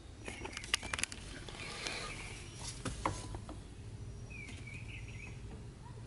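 Birds chirping, with a few sharp clicks and knocks in the first second and a low steady hum underneath.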